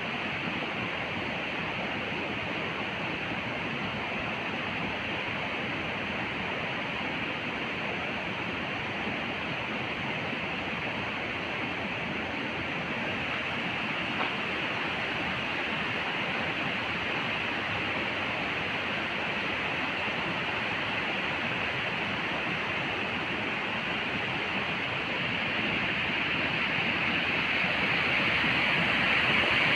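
Steady rushing of a mountain river's flowing water, growing louder near the end.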